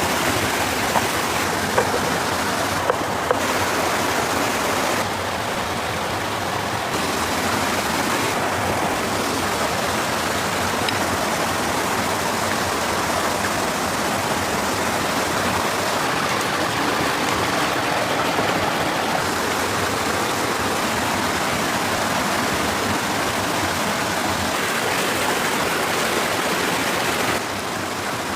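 Steady rushing of running water, with a few light clicks in the first few seconds and a slight drop in level near the end.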